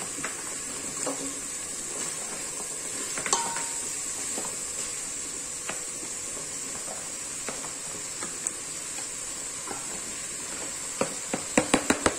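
Okra pieces going into a pot of masala frying in oil: a steady sizzle with scattered taps, and near the end a quick run of sharp clicks as the pieces are scraped off a chopping board into the pot.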